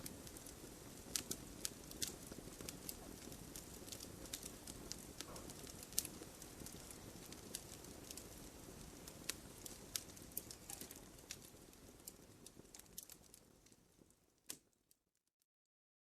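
Wood campfire crackling: irregular sharp pops and snaps over a low steady rumble of burning. The sound fades out to silence near the end, after one last pop.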